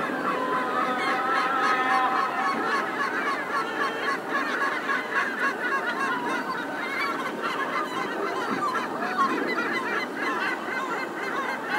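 Many birds calling at once, short repeated calls overlapping without a break, over a steady low city hum.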